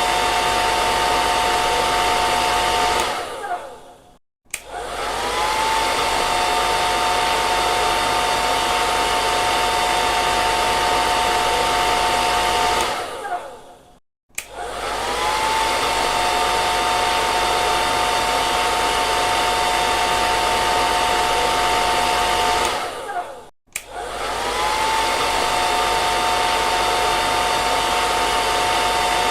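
Hair dryer blowing steadily, with a motor whine over the rush of air. About every ten seconds, three times, it winds down to a moment of silence, its whine sliding down, then starts up again with the whine rising back to pitch.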